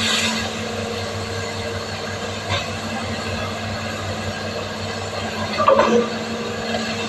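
Excavator's diesel engine running steadily, with a brief louder knock near the end.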